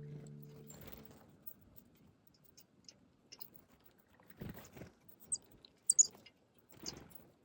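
Small birds at a winter feeder: faint rustling and tapping, with a few short, very high chirps about five to six seconds in. The last note of the background music dies away in the first second.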